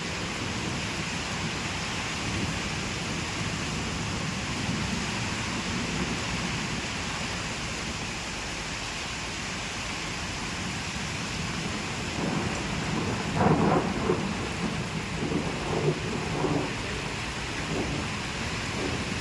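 Steady rain falling, with a louder, irregular spell of thunder about two-thirds of the way in.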